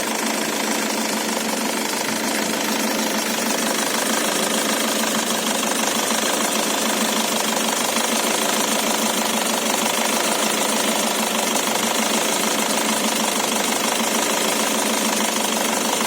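VW Golf 6's CAYC 1.6 TDI four-cylinder diesel running steadily at idle after a cold start, with the rustling noise the owner hears on cold starts.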